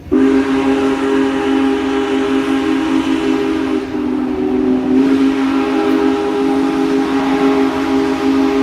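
Locomotive's multi-chime air horn sounding one long, steady chord, wavering slightly about four seconds in.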